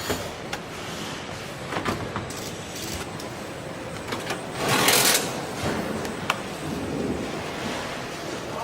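Truck assembly-line factory noise: a steady machine din with scattered clanks and knocks, and a short burst of hiss about five seconds in.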